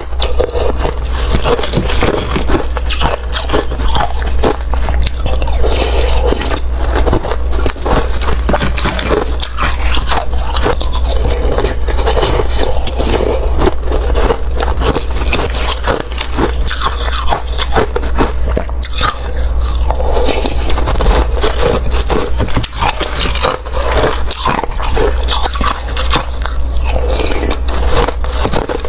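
Close-up biting and crunching of wet, slushy ice: continuous crackly scraping and crunching with many sharp cracks, over a steady low hum.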